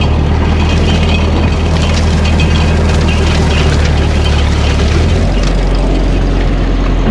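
Old Ferguson tractor's engine running steadily under a low hum, dropping to a lower pitch about five seconds in.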